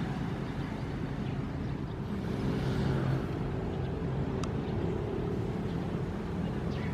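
Ocean waves with a steady low rumble, one wave washing up and swelling a little about halfway through, and a single short click a little later.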